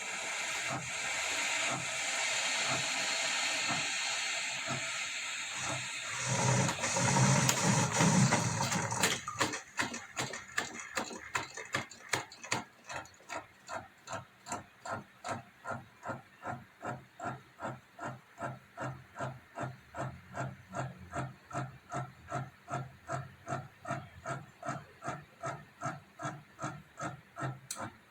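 Mecity 3-in-1 single-serve coffee maker brewing: a steady hiss of steam and hot water, with a louder gurgling surge about six to nine seconds in. It then settles into a regular pulsing about twice a second.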